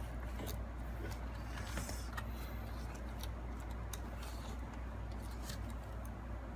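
Scattered small clicks and taps, typical of laptop parts and small tools being handled, over a steady low hum.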